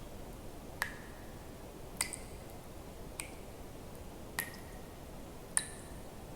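Water drops dripping at an even, slow pace, five in all, about one every second and a bit; each drop is a short, bright plink with a brief ringing tone, over a faint steady hiss.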